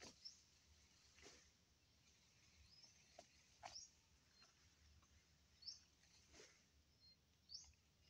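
Near silence: faint outdoor ambience with short, high bird chirps every second or two and a few soft clicks.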